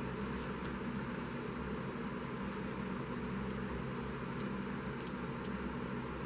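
Steady low room hum with faint, scattered light clicks and ticks of hands working a small tool on paper and card.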